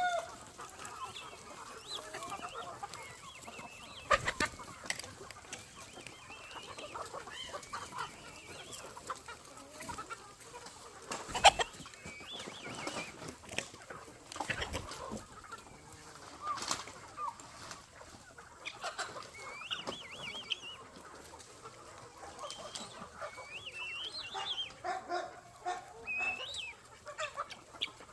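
A flock of chickens clucking, with scattered short calls throughout and a few sharp knocks, the loudest about eleven seconds in.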